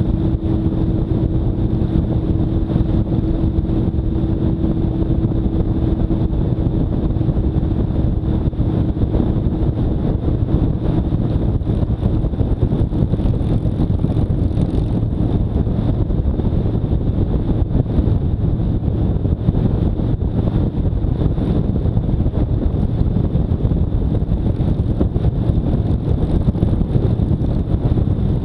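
Motorcycle engine running at a steady cruise under heavy wind rush on the microphone. A steady hum fades out about ten seconds in.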